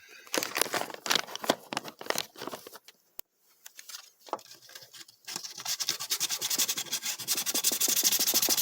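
Plywood being sanded by hand with sandpaper: quick rubbing back-and-forth strokes, irregular at first, a brief pause, then fast and steady from about halfway through.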